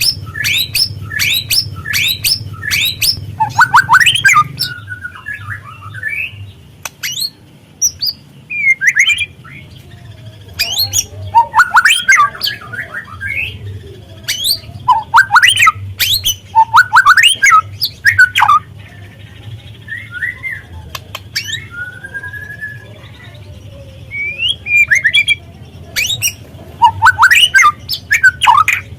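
White-rumped shama (murai batu) singing in repeated bursts of harsh, rapid crackling notes (the rough "kretekan" style) mixed with short whistled glides, over a steady low hum.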